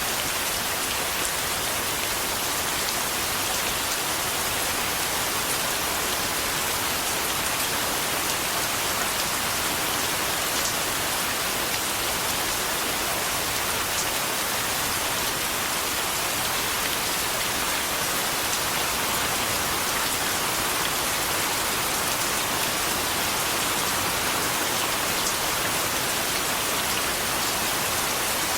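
Steady, even rain falling, a constant hiss with faint scattered drop ticks.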